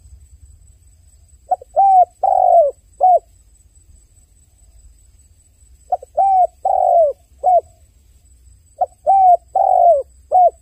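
A dove cooing: three phrases of four coos each, the third coo in each phrase drawn out longer than the others, spaced a few seconds apart.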